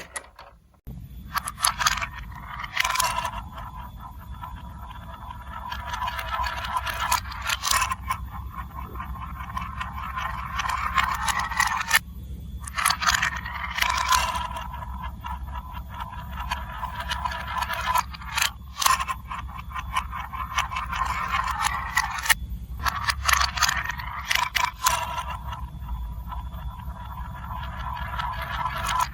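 Marbles rolling along a plastic building-block marble run: a continuous rolling rattle that swells and eases in waves, dotted with frequent sharp clicks as they strike and drop between track pieces.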